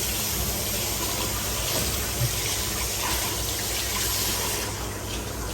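Steady rush of running water, stopping a little before the end.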